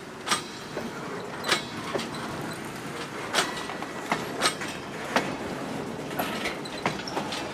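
Railroad cars rolling past, their wheels clacking over rail joints in irregular sharp clicks over a steady rumble.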